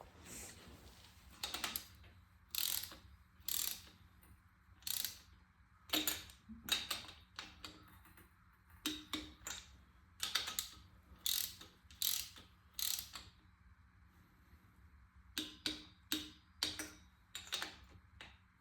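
Ratchet of a click-type torque wrench, turned in short strokes: a dozen or so quick bursts of ratchet clicks with pauses between them. The wrench is set to 25 foot-pounds and is tightening threaded timing-guide pivot pins.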